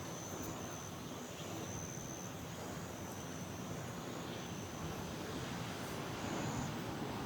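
Crickets trilling in short, high bursts that come and go, over a steady low rushing background noise.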